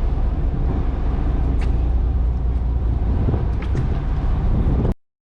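Loud, steady low rumbling noise that cuts off abruptly near the end.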